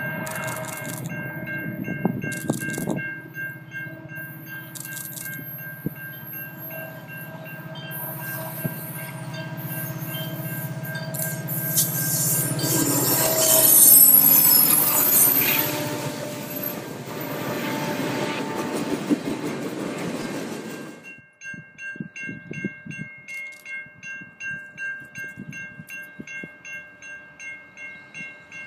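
Freight train passing close by: a low rumble of the locomotive and cars with loud wheel and rail noise, loudest about halfway through. About two-thirds of the way in the train noise cuts off abruptly. From there a railroad crossing bell can be heard ringing steadily, a little over once a second, as another train approaches from a distance. The same bell is also faintly audible beneath the passing train earlier.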